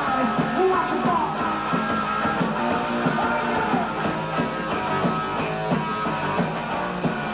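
Post-punk rock band playing live: loud, steady, guitar-driven rock music with no break.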